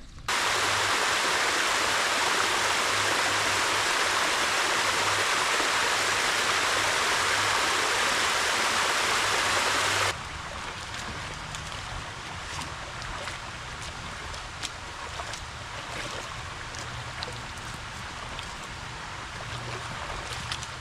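Steady rushing water, loud and even, that starts suddenly and cuts off about ten seconds in. It is followed by a quieter outdoor hiss with scattered light clicks.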